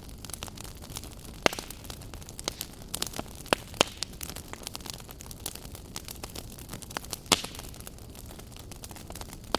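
Wood fire burning in a fireplace: a steady low hiss with constant crackling and a few loud sharp pops.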